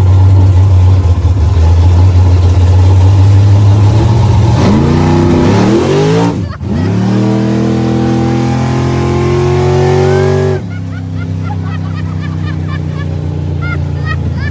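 Small-block Chevy V8 in a nitrous Camaro, loud and steady at first, then accelerating hard with its pitch rising through a gear, a quick shift about six and a half seconds in, and a second rising pull. It drops off suddenly about ten and a half seconds in as the throttle is lifted, then runs on more quietly.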